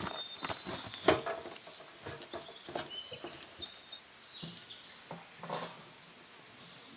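Irregular knocks and clatter, the loudest about a second in, with a bird singing short whistled notes in the background.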